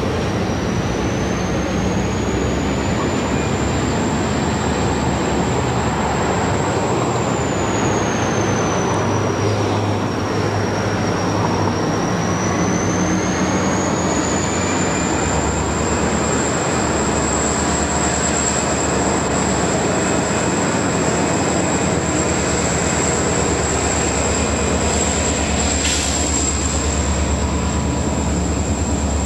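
A train running by, its wheels on the rails making a steady, continuous rumble that holds at the same loudness throughout.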